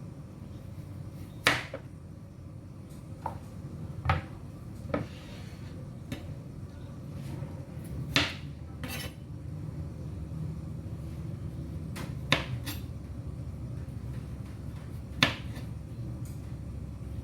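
Kitchen clatter: dishes, pans and utensils knocking and clinking every second or few, over a steady low hum.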